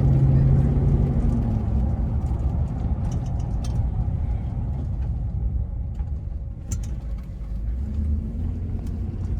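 Vehicle engine and road noise heard from inside the cab while driving: a steady low rumble, with a low engine hum that drops away about one and a half seconds in.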